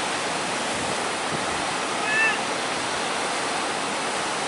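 Heavy surf from a rough, wind-driven sea: a steady, even rush of noise. There is a brief high-pitched chirp about two seconds in.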